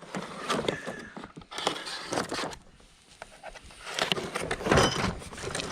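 Rummaging through a box of mounting hardware: irregular rustling and scraping of packaging, with a light metallic clink of small parts near the end.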